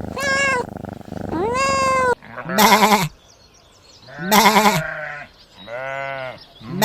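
Goat bleating four times, each call wavering and quavering, about a second apart, starting about two seconds in. Before that come two shorter, higher, smoothly arching animal calls.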